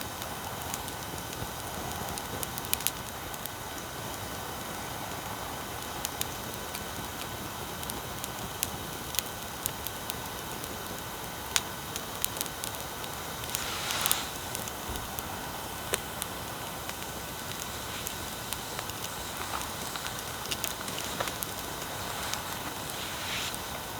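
Wood bonfire crackling, with scattered sharp pops over a steady low hiss and faint steady tones. The hiss and tones are electronic noise from the recording equipment.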